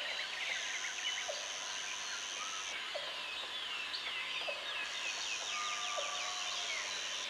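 Tropical forest ambience: many birds chirping and calling, with a fast run of falling notes in the middle, over a steady high-pitched insect drone that stops for about two seconds and then comes back.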